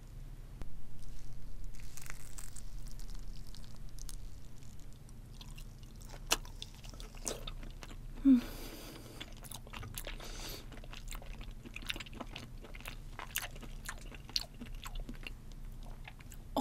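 Close-miked chewing of raw salmon sashimi: wet mouth clicks and smacks, with one louder smack about halfway through.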